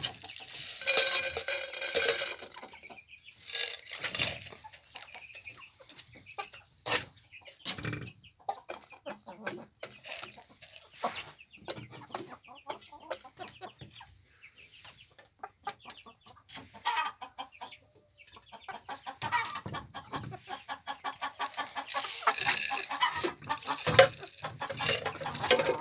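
A flock of chickens clucking and calling, with many short sharp sounds in between. There are louder stretches of calls about a second in and again near the end.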